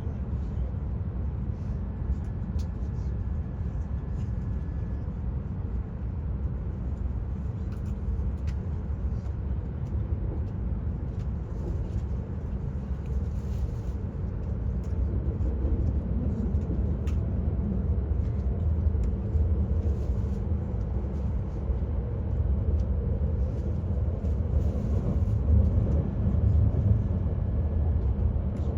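Shinkansen train running, heard inside the passenger cabin: a steady low rumble that grows gradually louder, with a faint high tone twice.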